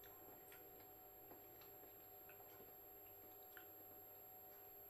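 Near silence: faint mouth clicks from quietly chewing a mouthful of food, scattered over steady room tone.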